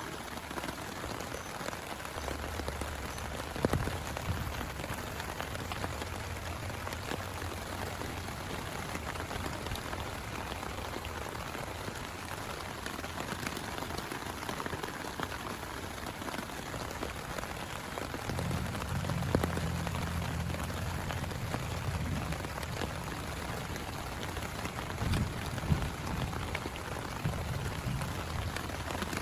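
Steady heavy rain falling and pattering on a surface, with a few louder drop hits. A low rumble runs underneath for most of the time.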